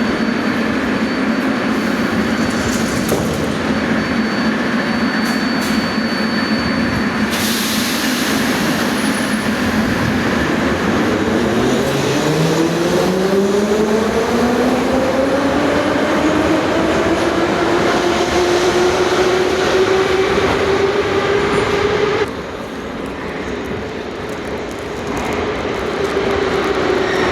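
Moscow Metro train pulling out of the station: the traction motors' whine rises in pitch as the train accelerates from about ten seconds in, then levels into a steady tone over the rumble of the cars. The sound drops suddenly in level a little after twenty seconds.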